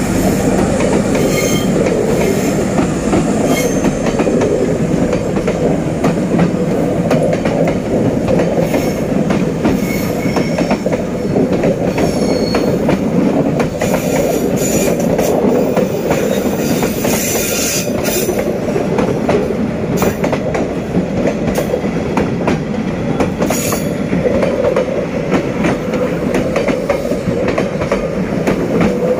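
Passenger train coaches rolling past at close range: a steady, loud rumble of steel wheels on rail with clicks over the rail joints and high wheel squeals now and then.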